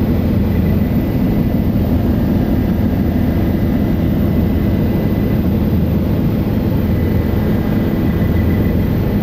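A helicopter's turbine engine and rotor running steadily, heard from inside the cabin as a loud, even drone with a faint steady whine above it.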